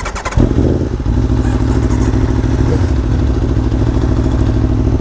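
Aprilia Tuono V4 1100 Factory's V4 engine starting: a brief rapid clatter of cranking, then it catches about half a second in and idles steadily with an even pulse.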